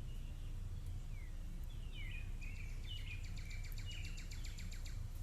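Small birds chirping, with a few quick down-sweeping chirps followed by a fast, even trill of about nine notes a second near the middle, over a steady low rumble.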